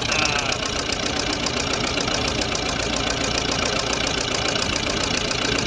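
Lister four-cylinder stationary diesel engine running steadily with a deep rumble and a rapid, even firing beat.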